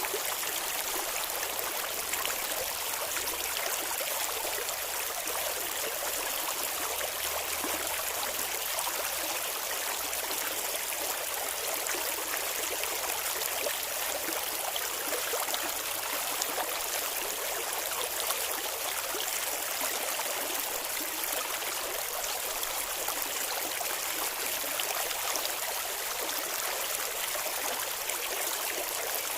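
Clear river water flowing and babbling over rocks: a steady, even rush of water.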